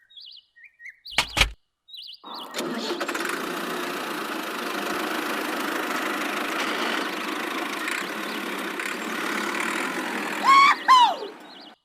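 A small motor-driven machine runs steadily for about nine seconds, starting and stopping abruptly. Two short falling chirps come near the end.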